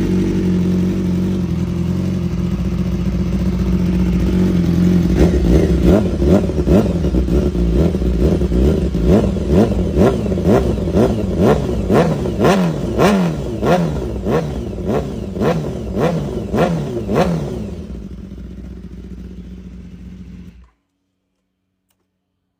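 BMW S 1000 RR inline-four engine idling just after a cold start. About five seconds in, the throttle is blipped about twenty times in quick succession, a little under two revs a second, each rising and dropping back. It then settles back to idle, grows quieter and cuts off suddenly, leaving a couple of seconds of silence.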